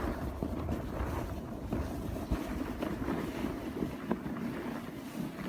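Wind buffeting the microphone in a snowstorm: a steady, low rushing with a few small knocks.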